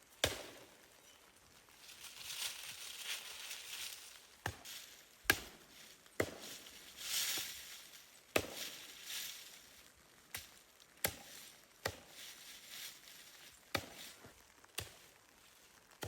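An axe chopping wood: about ten sharp, separate strikes at an uneven pace, with stretches of hissy scraping or rustling between some of them.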